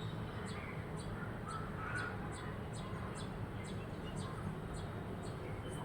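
Faint bird calls over a steady low hum, with short high chirps repeating about twice a second.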